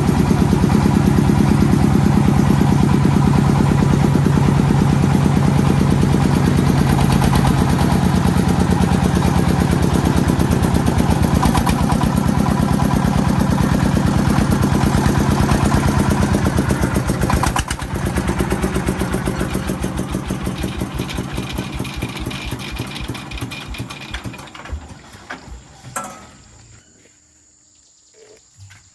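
Agricultural vehicle's engine running with a fast, even chug, loud at first, then fading away over the last ten seconds until it is nearly gone.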